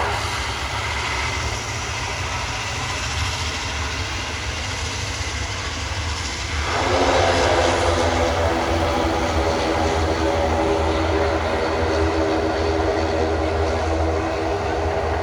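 ATR 72-500's twin turboprop engines and propellers running with a steady droning hum. About six and a half seconds in it grows suddenly louder and fuller, then holds steady.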